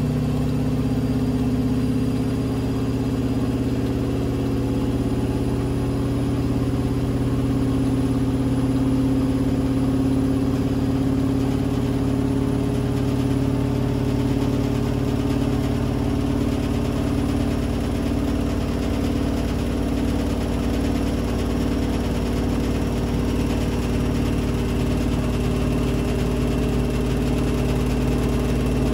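Blomberg fuzzyDigitronic Granat 3200 washing machine spinning: a steady motor hum with a whine from the turning drum, the pitch shifting slightly about two-thirds of the way through.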